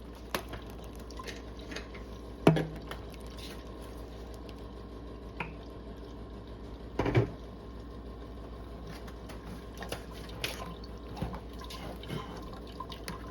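Blended ginger-turmeric juice dripping and trickling through a strainer cloth into a container, with small irregular drips throughout and two louder knocks about 2.5 and 7 seconds in.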